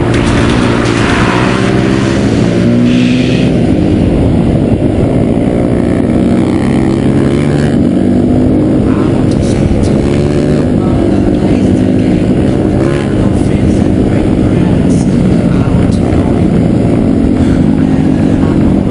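Off-road motorcycle engines revving, their pitch rising and falling without a break.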